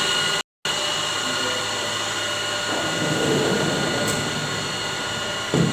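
CNC machine running: a steady whirring noise with thin high whining tones, cut off for a moment about half a second in. A rougher surge of noise comes around the middle, and a short thump near the end.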